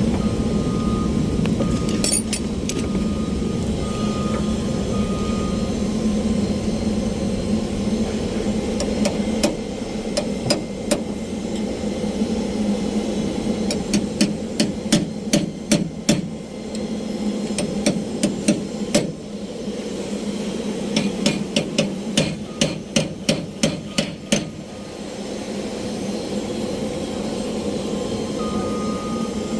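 Hammer tapping on metal in several bursts of quick, evenly spaced strikes, about three a second, the longest run near eight strikes, during sheet-metal repair work. A steady low machinery drone runs underneath.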